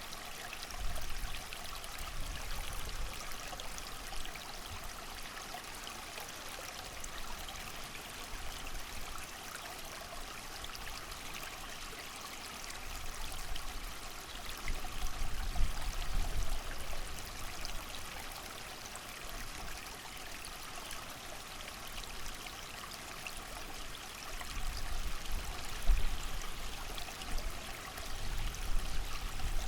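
A creek's water running steadily, with gusts of wind rumbling low in swells about a second in, around the middle and again near the end.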